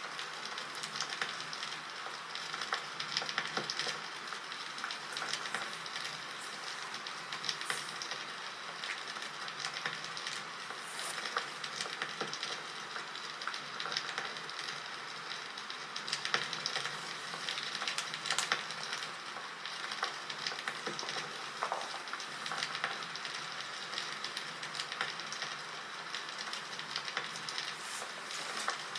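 Campfire crackling: a steady hiss with many small irregular pops and snaps.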